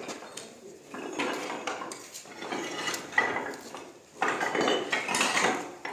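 Hard scraping and clinking of a hand tool on stone or mortar, in three passes of about a second each, the last the loudest.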